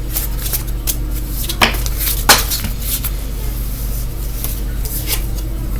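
Light clicks and taps of small objects being handled on a tabletop, with two sharper knocks about a second and a half and two seconds in, over a steady low hum.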